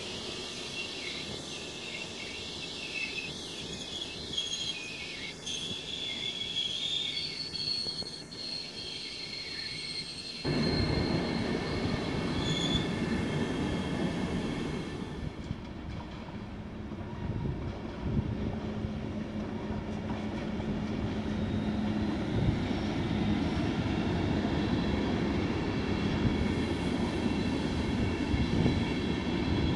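ÖBB Railjet coaches rolling past on the adjacent track. Thin, high wheel squeal comes from the wheels on the rails in the first ten seconds. About ten seconds in, the rolling rumble gets suddenly louder and stays that way.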